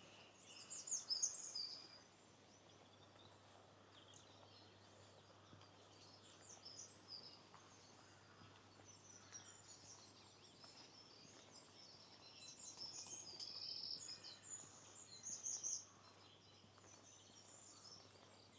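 Small songbirds singing in short, high, chirpy phrases, loudest about a second in and again in a longer spell from about twelve to sixteen seconds in, over a faint steady background hiss.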